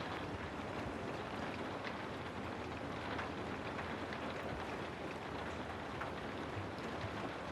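Steady rain ambience: an even hiss of falling rain with scattered faint drop ticks.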